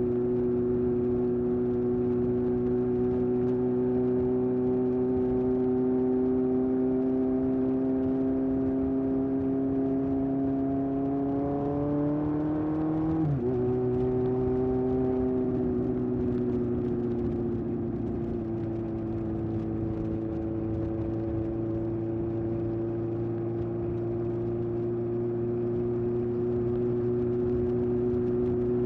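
1981 Honda CB750F's air-cooled inline-four running through a period Yoshimura exhaust on the move. The pitch climbs slowly, drops sharply about halfway through as with a gear change, then settles and holds steady.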